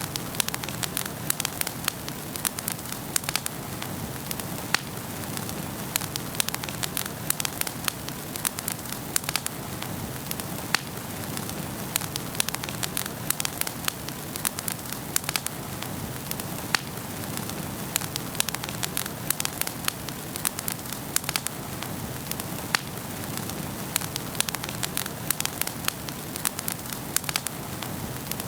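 Wood fire burning in a fireplace: many irregular sharp crackles and pops over a steady hiss.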